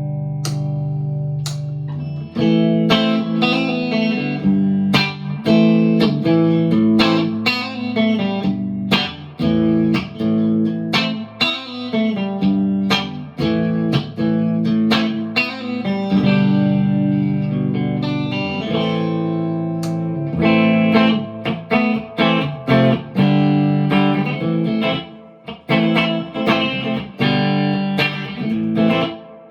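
PRS McCarty 594 Hollowbody II electric guitar played through a Marshall DSL40C amp: a chord rings for about two seconds, then a passage of picked notes and strummed chords.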